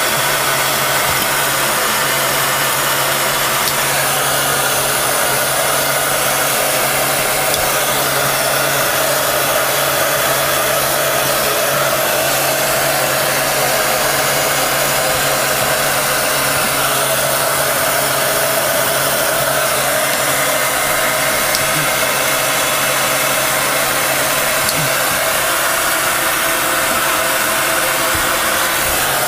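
Electric hot-air blower running steadily at a constant pitch, re-warming the repair material, which has gone too cool and stiff to push into the seam.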